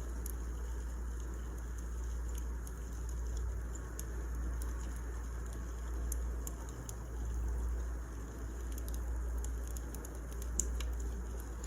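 Wood fire crackling: scattered small pops and snaps over a steady low rumble and hiss, with one sharper pop near the end.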